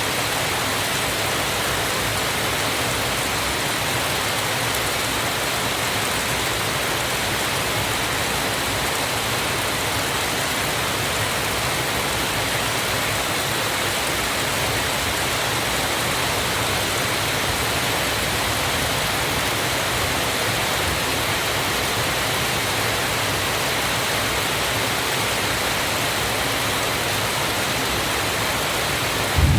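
Steady, unbroken rush of falling water, a waterfall's constant roar. A low rumble breaks in at the very end.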